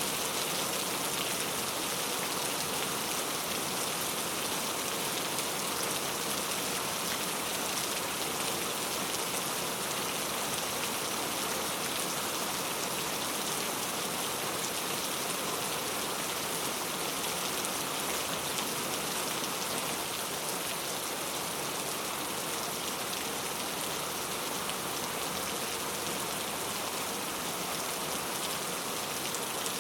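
Heavy rain pattering on mango tree leaves, a steady dense hiss of countless drops.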